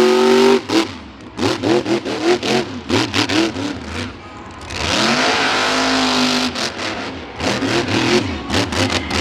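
Monster truck engine revving hard in quick repeated throttle blips. About five seconds in it holds a longer full-throttle run, with loud rushing noise over it.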